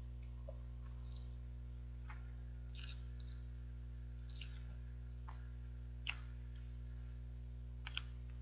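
A person chewing soft steamed rice cake (baekseolgi), with scattered small mouth clicks and smacks, the sharpest about six and eight seconds in. A steady low hum runs underneath.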